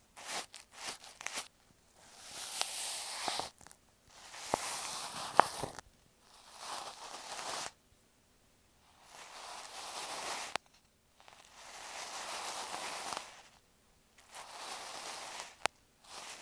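A bonten, the fluffy down puff of an ear pick, brushed across an earphone microphone, making soft rustling swishes in repeated strokes of a second or two with short pauses between them and an occasional light click.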